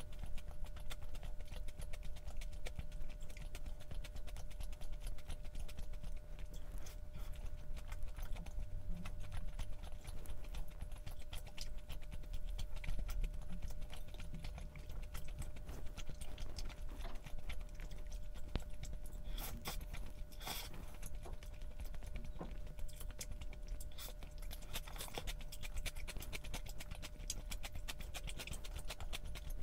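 Close-miked chewing and eating: a steady run of small clicks and mouth sounds, with a few louder clicks about two-thirds of the way through, over a faint steady hum.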